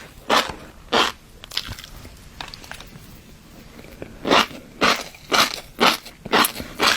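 Close-miked chewing of fish roe: crisp, crunchy bites about two a second, with a quieter pause of a couple of seconds in the middle.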